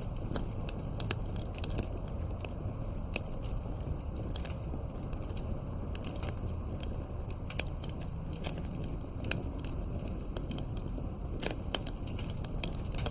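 Campfire burning: the wood crackles with irregular sharp pops over a steady low rumble.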